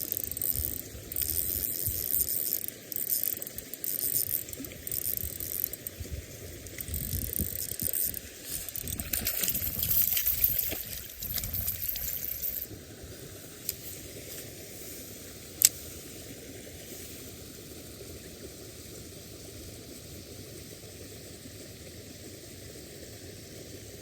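Hooked trout splashing at the water surface on and off for about twelve seconds. Then a steady, quiet background with one sharp click.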